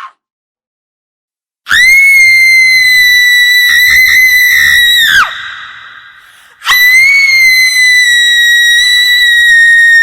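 Two long, shrill screams from a horror sound effect. Each is held at one very high pitch for about three and a half seconds and drops in pitch as it breaks off. The first leaves an echoing tail that dies away before the second begins.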